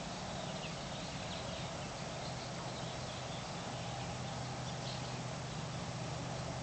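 Quiet outdoor evening ambience: a steady low hum with a few faint, scattered bird chirps.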